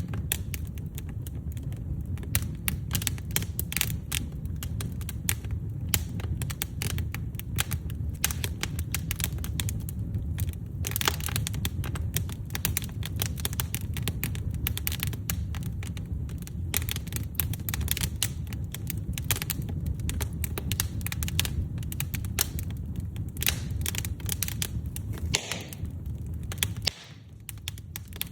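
Firewood burning in a fireplace: fast, irregular crackles and pops over a low, steady rumble of flame. Near the end it drops quieter for about a second.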